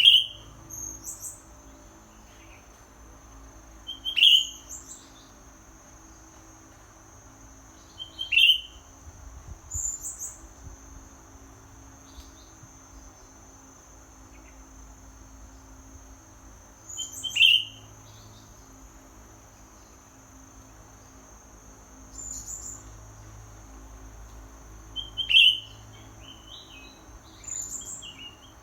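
Green leafbird (cucak ijo) giving short, sharp chirping calls every few seconds, each a chirp followed by a higher note. A steady high-pitched insect drone, like crickets, runs underneath.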